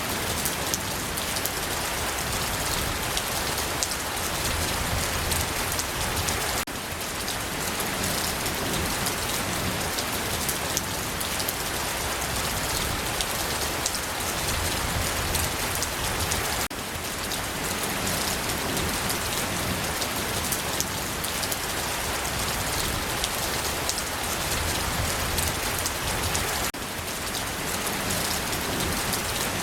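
Steady rain falling on a surface, with individual drops ticking through a dense, even wash of rain noise. The level dips briefly about every ten seconds.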